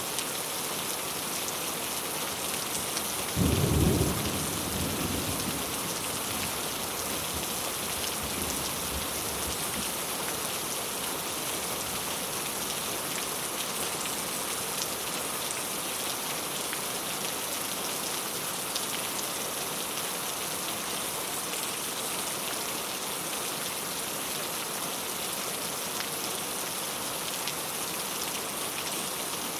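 Steady rain pattering on a clay tile roof. A single clap of thunder strikes about three and a half seconds in and rumbles away over the next few seconds.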